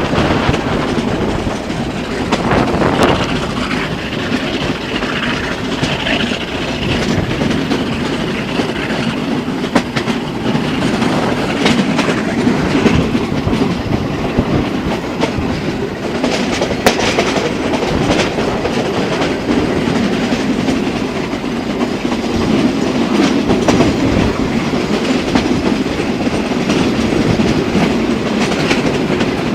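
Passenger train running along the track: a steady rumble of wheels on rails with scattered sharp clicks.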